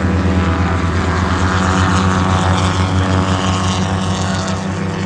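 Vintage pre-war sports car engine running at a steady speed, loud and close, easing off slightly near the end.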